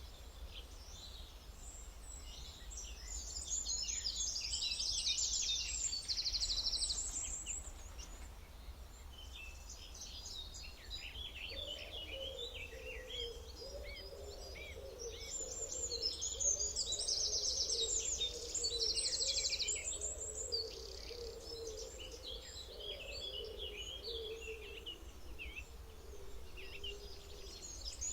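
Several songbirds chirping and trilling, with fast repeated trill phrases, coming in two busier spells, around the first quarter and again past the middle. A lower, wavering hum joins about halfway through and fades near the end, over a steady low background rumble.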